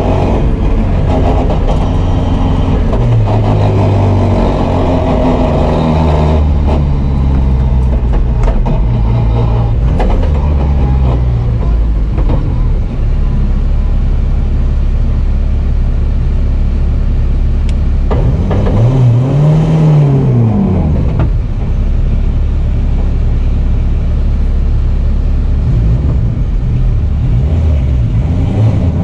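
Honda S2000 drift car's engine running hard through a drift run, its revs climbing and dropping in steps, with a sharp rev rise and fall about two-thirds of the way through.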